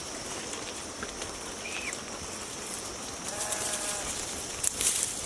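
Sheep herd: one faint drawn-out bleat about three seconds in, over a steady hiss, with a brief crackle near the end.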